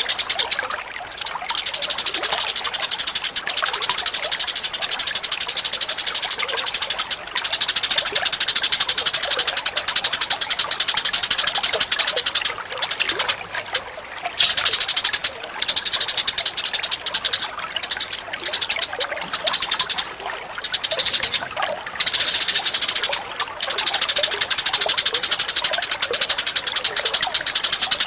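Recorded birdsong: a loud, high, very rapid trill, the notes packed tightly together, running in long phrases of several seconds with short breaks between them.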